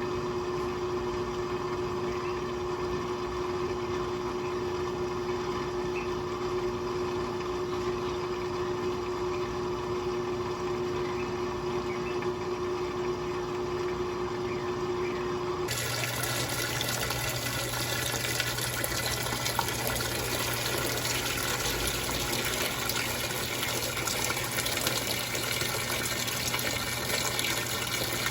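Electrolux top-load washing machine running with a steady hum; a little over halfway through the hum cuts off abruptly and water starts rushing into the drum, with a low steady buzz under it as it fills.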